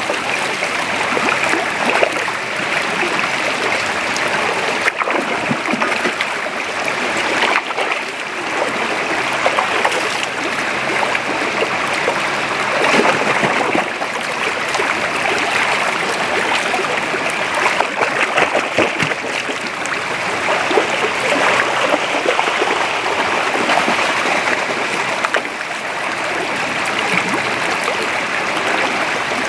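A shallow forest creek flowing: steady rushing and gurgling water, with brief splashes every few seconds.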